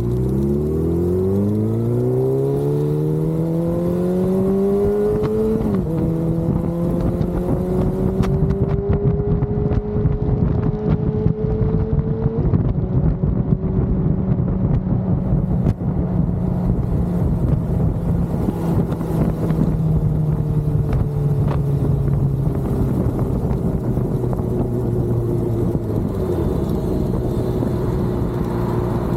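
Vehicle engine accelerating through the gears: its pitch climbs for about six seconds, drops sharply at an upshift, climbs again, and drops at a second upshift about twelve seconds in. It then holds a steady cruise, slowly easing off, under constant road and wind noise.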